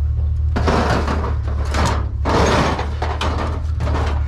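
Metal scraping and clunking, four rough bursts about half a second long, as a scrap stove is worked onto a pickup's tailgate, over a steady low hum.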